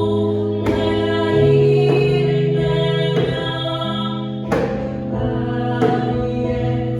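Worship music: piano accompaniment holding and changing chords, with a few sharp djembe strikes.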